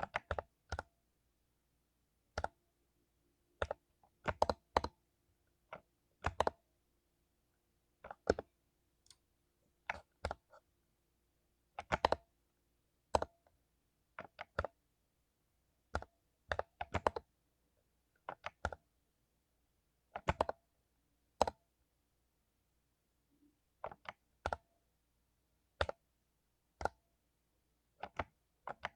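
Mechanical keyboard with lubed Cherry MX Silver linear switches, keys struck one or two at a time at a slow, irregular pace with gaps of a second or more between them.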